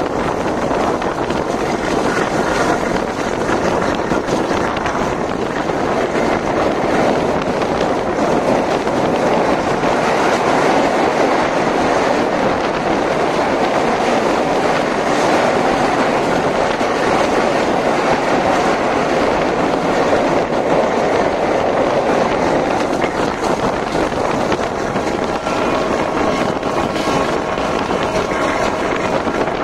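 Passenger train running at speed, heard from an open carriage doorway: wheels clattering over the rails under a rush of wind. It gets louder in the middle while the train crosses a steel truss bridge, and a faint whine comes in near the end.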